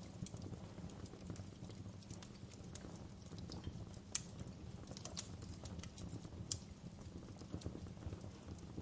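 Fire crackling: irregular sharp pops and snaps over a low steady rumble of burning, with the loudest pops about four seconds in and again about six and a half seconds in.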